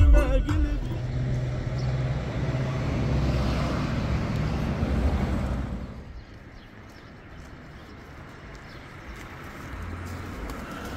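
A motor vehicle passing, its noise swelling and then fading away about six seconds in, followed by a quieter low rumble.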